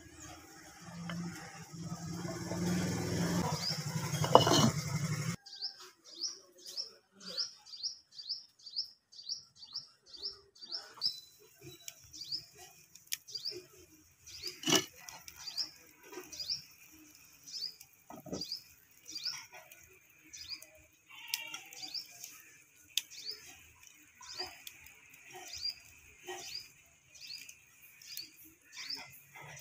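For the first five seconds, a wooden spoon stirs curry in a clay pot over a wood fire, a dense noise that cuts off suddenly. Then a bird calls over and over with short, high chirps that drop in pitch, about three a second at first and then about one a second. A few sharp knocks come in between.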